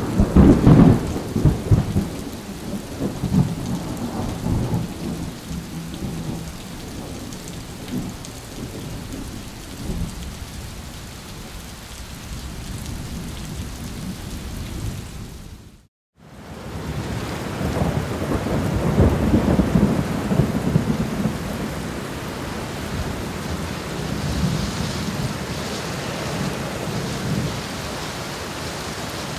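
Thunder rumbling over steady rain: a sudden loud rumble right at the start that dies away over several seconds, a brief cut to silence about halfway, then a second long rumble that swells and fades.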